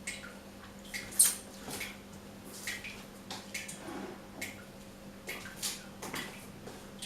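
A dripping tap: water drops falling one after another, roughly one to two a second and unevenly spaced, with one louder drop about a second in.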